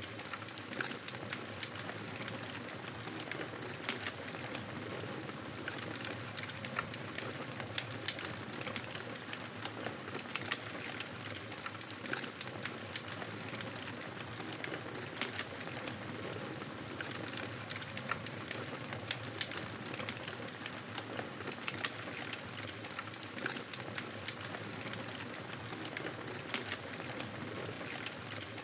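Wood fire in a fireplace crackling: a steady hiss with frequent small pops and snaps scattered irregularly throughout.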